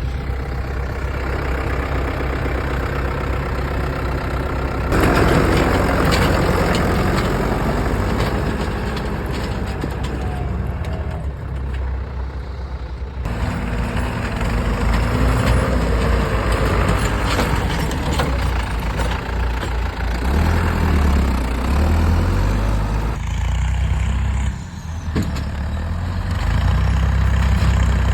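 Tractor engine running during snow clearing, steady and loud. It gets louder and noisier about five seconds in, and a deep rumble grows stronger in the last several seconds.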